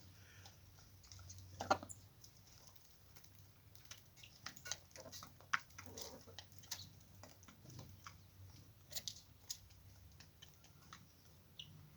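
Irregular light clicks and taps, some close together and some alone, over a faint low hum.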